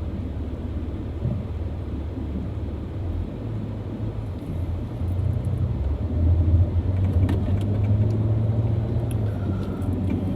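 Car running in slow traffic, a steady low rumble of engine and road noise that grows louder about halfway through.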